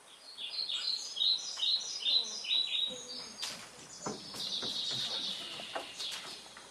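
Small birds chirping: a quick run of about eight short, high chirps, followed about a second later by a longer high call.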